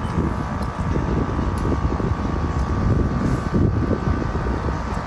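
Boat engine running steadily, a faint constant whine above a rumble of wind on the microphone.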